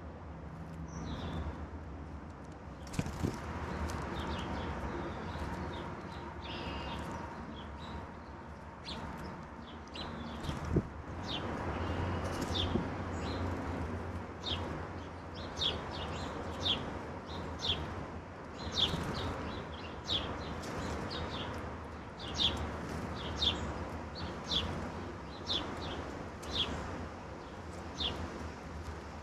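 Backyard songbirds calling: a string of short, sharp chip notes, about one a second for much of the stretch, over a steady low background rumble.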